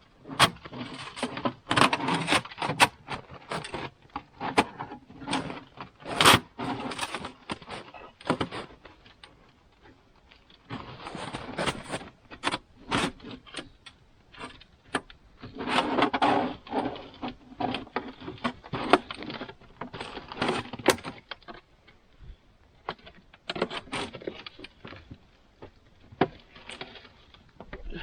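Thin tin sheet of a homemade stovepipe being handled and bent: irregular metallic rattling, crinkling and clicks in bursts, with short pauses between them.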